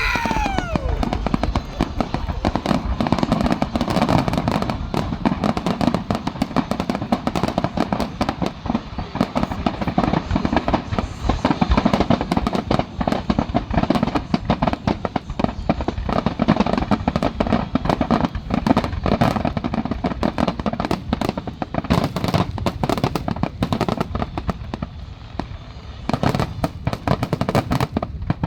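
Fireworks finale: a dense, continuous barrage of shell bursts and crackling, with a falling whistle right at the start.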